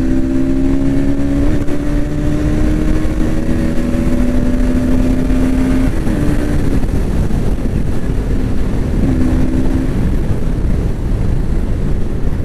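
Bajaj Pulsar NS200's single-cylinder engine running at steady road speed under a dense rush of wind noise. Its tone holds nearly level, sagging slightly over the first six seconds, then wavers and breaks up.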